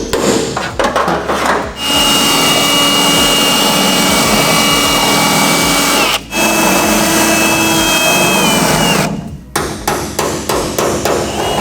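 A power tool cutting metal, running with a steady high whine that sags slightly under load and stops briefly twice. Rapid knocking strikes come at the start and again near the end.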